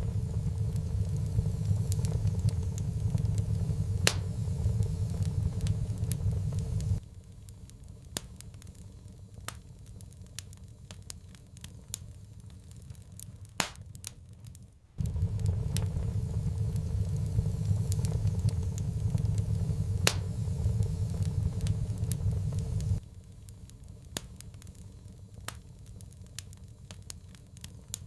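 Fireplace wood fire crackling, with scattered sharp pops and snaps. A loud low rumble runs under it at the start, cuts off abruptly, then returns just as abruptly for about eight seconds midway before cutting off again.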